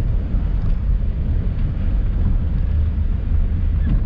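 Van rolling slowly over a rough, gravelly surface: a steady low rumble with the crunch of tyres on grit.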